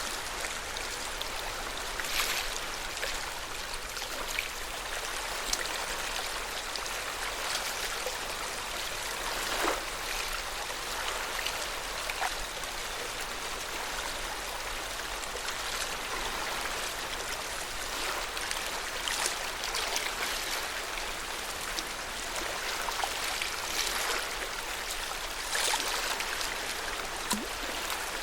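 Water of Lake Yamanaka lapping at the shore: a steady, even wash with small splashes now and then.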